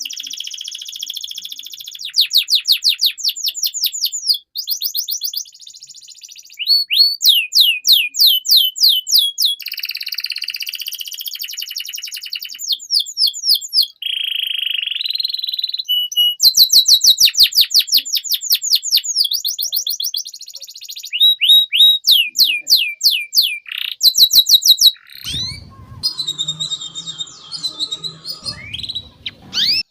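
Domestic canary in full continuous song: fast trills of rapidly repeated downward-sweeping notes, phrase after phrase at changing speeds, with buzzier rolls between them. Near the end there are a few seconds of rougher, lower, noisier sound.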